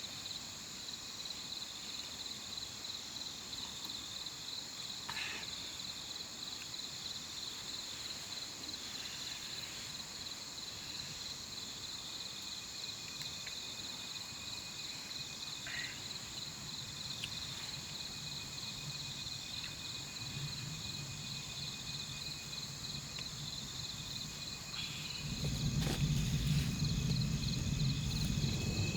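Crickets and other insects in a steady, pulsing high-pitched chorus. About three-quarters of the way through, a louder steady low hum joins in.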